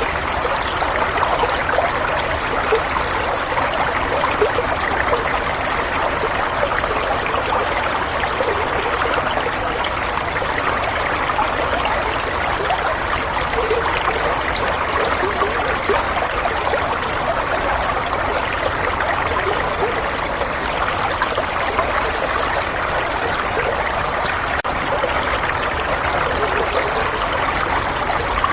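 Flowing water running steadily and evenly, a continuous trickling rush with no breaks.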